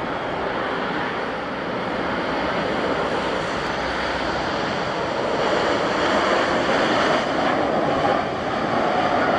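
Wind buffeting the microphone over the jet noise of a Boeing 737 MAX 8's CFM LEAP-1B engines. A steady engine whine comes through near the end.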